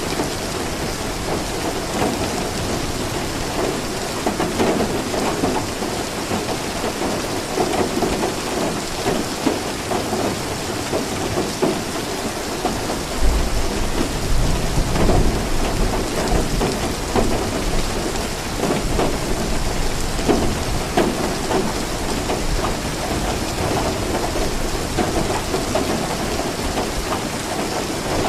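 Steady heavy rain falling, with a deep roll of thunder about halfway through that rumbles for a few seconds.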